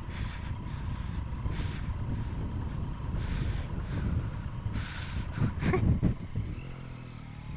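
Yamaha MT-09 motorcycle's inline-three engine running through an Akrapovic full exhaust, under a low rumbling road and wind noise. Near the end the engine note evens out into a steady hum.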